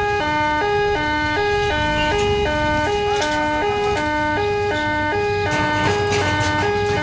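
Electronic two-tone warning hooter at a railway level crossing, alternating between two notes about three times a second, over a low rumble.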